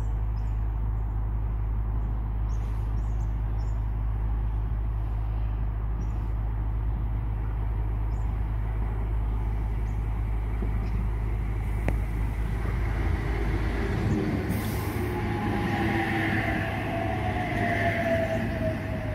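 Double-deck electric passenger train approaching and running in alongside the platform, growing louder from about two-thirds of the way through. A whine slowly falls in pitch as the train passes.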